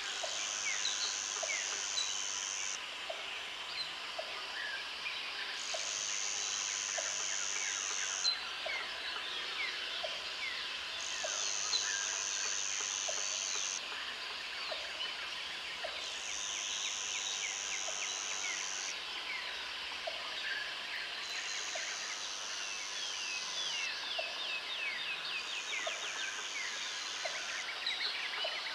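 Jungle ambience: a dense chorus of birds calling and chirping, with a high insect buzz that comes in bursts of two to three seconds, six times, about every five seconds, over a steady run of short low pips about once a second.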